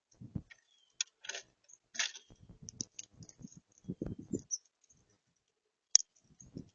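Birds feeding at a feeder right by the microphone: irregular dull knocks, clicks and scratches, with one sharp, louder click about six seconds in.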